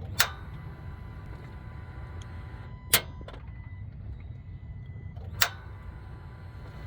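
Three sharp metallic clicks about two and a half seconds apart from a 2020 Ram 2500 that will not start, over a steady low rumble. The truck gives single clicks without cranking.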